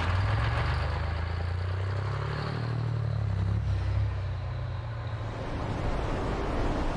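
Race truck engine running hard, a low drone that drops away about six seconds in, leaving a broader rushing noise.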